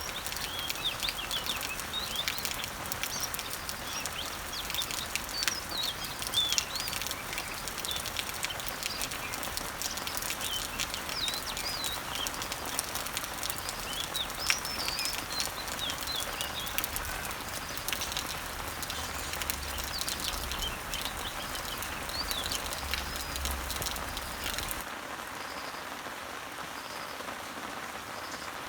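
Rain falling on garden leaves and trees, a steady hiss with scattered individual drop taps, while many small birds chirp and sing over it. About 25 seconds in the birdsong stops abruptly and only a steadier, slightly quieter rain hiss remains.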